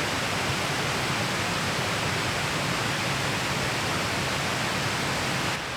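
Steady rushing of a valley stream's flowing water, an even hiss with no distinct events.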